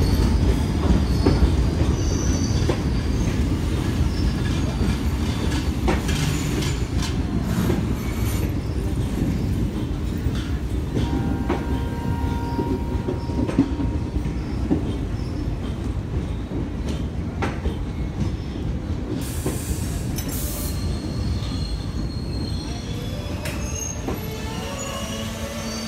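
Indian Railways express train's passenger coaches rolling by: a steady rumble with the clack of wheels over rail joints and a few faint wheel squeals, slowly fading.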